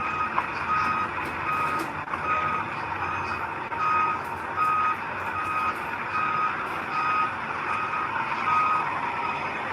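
Reversing alarm on a construction vehicle beeping steadily, about one beep every three-quarters of a second, over the running engine; the beeping stops near the end.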